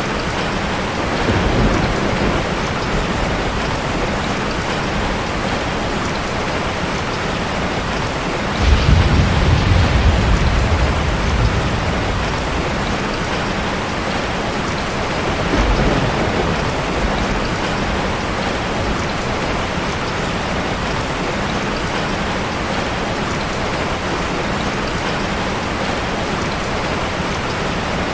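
Heavy rain falling steadily as an even hiss. A deep rumble swells about nine seconds in and fades over a few seconds, with fainter ones near the start and around sixteen seconds.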